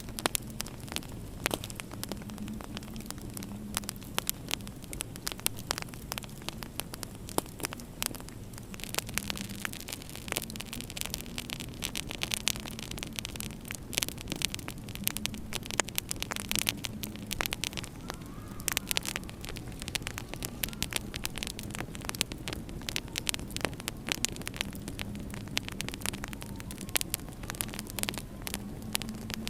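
Wood fire crackling in a fireplace, with many irregular sharp pops, over a steady low hum.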